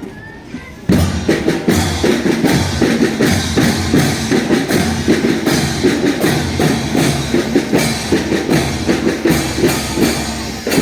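Marching drum band playing, drums beating a fast, steady rhythm. It comes in loud about a second in after a brief lull.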